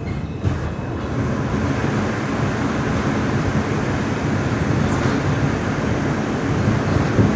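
R142 subway car running along the track, heard from inside: a steady rumble of wheels on rail with a thin high whine from about half a second in, and a single knock near the end.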